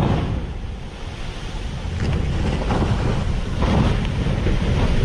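Rough sea, with waves surging and crashing a few times, under strong wind buffeting the microphone.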